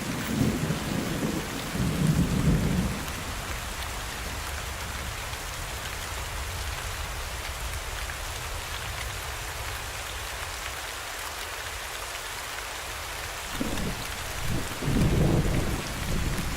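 Steady rain-like rushing hiss, with heavy low rumbling in the first three seconds and again near the end.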